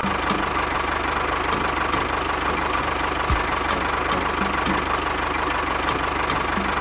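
A small engine running steadily, with a continuous whine and a fast, even knocking.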